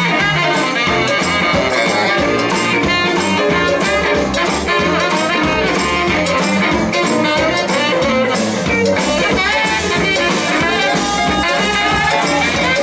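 A live blues band playing, with horns, electric guitar and drum kit.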